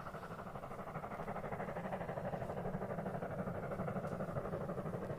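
A steady mechanical hum in the background with a fast, even flutter, like a motor or engine running.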